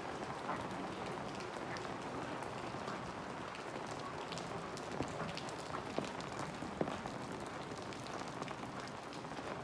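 Steady rain falling: an even hiss with many scattered drop ticks, and a few sharper taps just past the middle.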